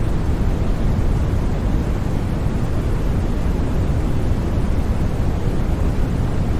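Steady, unchanging white-noise track for sleep: an even, featureless rush, heaviest in the low end with only a little high hiss.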